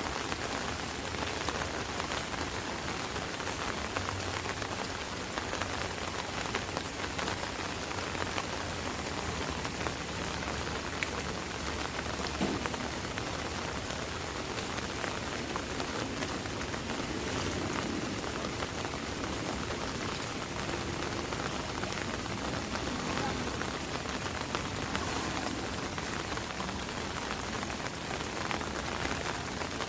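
Steady rain falling on an open umbrella overhead: a dense, even run of small drop hits with no let-up.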